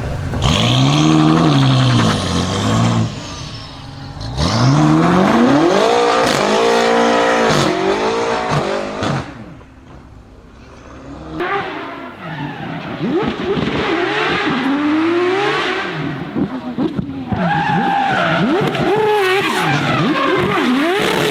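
High-performance car engines revving hard, the pitch climbing and falling again and again. There is a quieter stretch about ten seconds in, then quicker, choppier swings of pitch.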